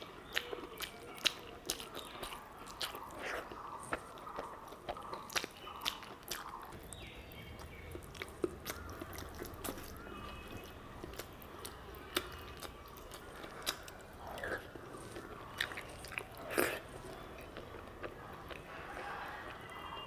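A person eating close to the microphone: chewing and biting with many irregular, sharp mouth clicks.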